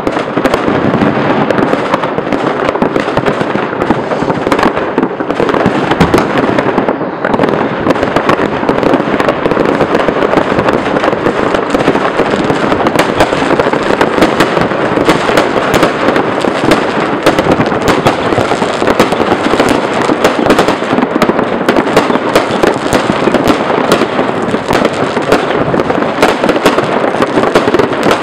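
Fireworks and firecrackers going off all around in a dense, unbroken stream of overlapping bangs, pops and crackles, with no pause between them.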